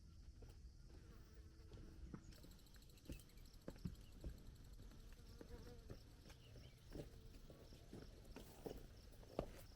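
Faint insect buzzing comes in about two seconds in, over a low rumble, with scattered soft footsteps crunching on a mountain trail.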